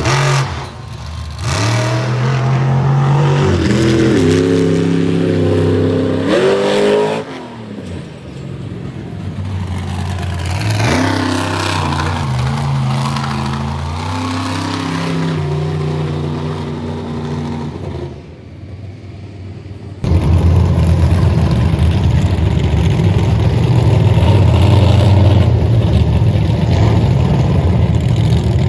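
Monster truck engine revving hard: its pitch climbs in steps and then drops off, twice. About two-thirds of the way through, the sound changes abruptly to a louder, steady deep engine rumble.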